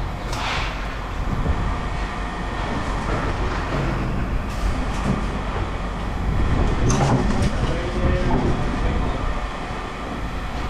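Heavy scrap-yard machinery running with a steady rumble, with a few sharp clanks of metal scrap, one about half a second in and a cluster about seven seconds in.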